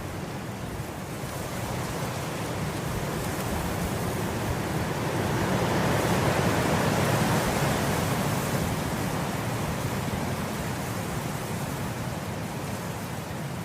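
Wind blowing through grass: a steady rush that builds into a stronger gust in the middle, then eases off again.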